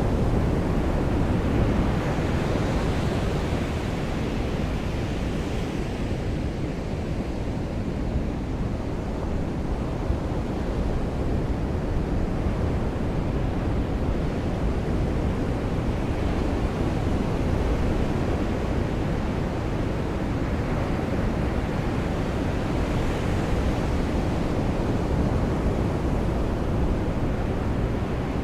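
Ocean surf washing onto a beach in the rain: a steady rushing noise that swells as waves break, a few seconds in and again near the end.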